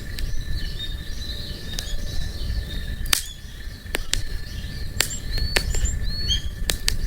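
Wood crackling and popping in a campfire, irregular sharp snaps, while small birds chirp and tweet. A steady low rumble runs underneath.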